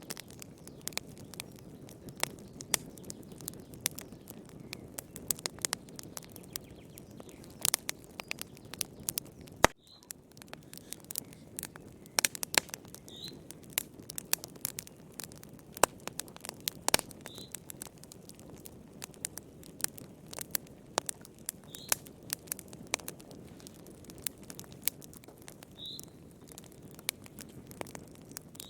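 Wood fire crackling, with irregular sharp pops and snaps over a soft low rumble of the flames. Faint short high chirps sound about every four seconds.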